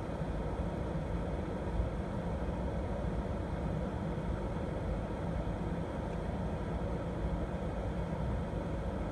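Steady low rumble of a stationary car with its engine idling, heard from inside the cabin through a dashcam microphone.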